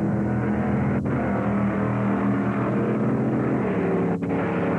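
Drag-racing car engine running hard under full throttle as the car accelerates down the strip; its pitch shifts about three and a half seconds in.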